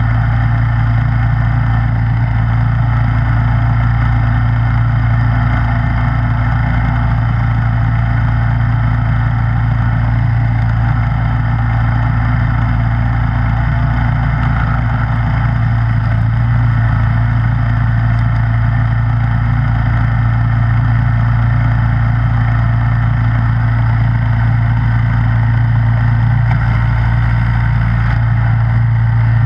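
Snowblower engine running at a steady speed, an even, unchanging hum.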